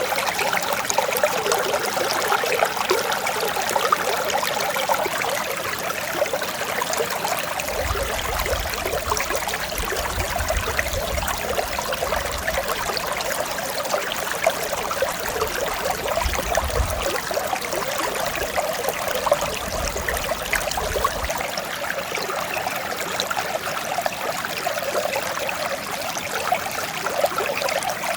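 Mountain stream flowing steadily over rocks, an even rushing and trickling of clear water. A low rumble comes and goes through the middle.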